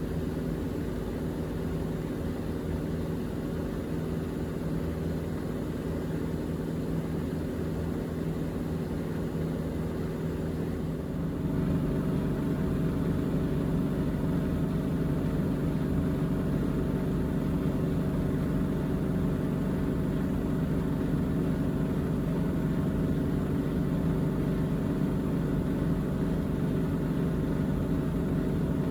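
Miele Navitronic W3985 washing machine spinning at high speed in its final spin, its drum and motor running with a steady drone. About eleven seconds in the sound steps up and grows louder as the spin reaches 1400 rpm, then holds steady.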